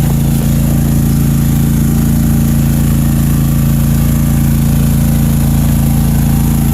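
Country Clipper zero-turn mower's engine running steadily at an even pitch.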